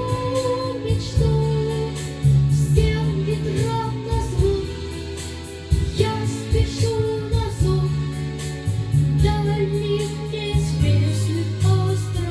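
A boy's unbroken child voice singing a melody over a recorded backing track with a steady beat and bass.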